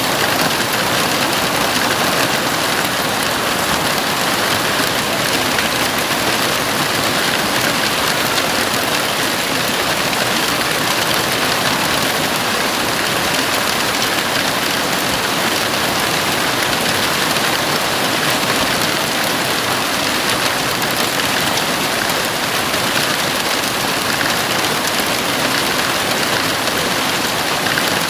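Heavy rain falling steadily on a house roof, a dense, even hiss with no pauses.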